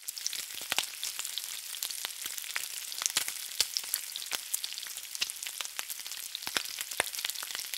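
Food sizzling and crackling in hot oil: a steady hiss with many irregular sharp pops.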